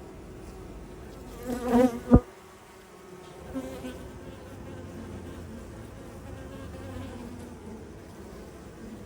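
Honeybees buzzing steadily around an open hive, with one louder buzz passing close about a second and a half in. A sharp knock just after two seconds is the loudest moment.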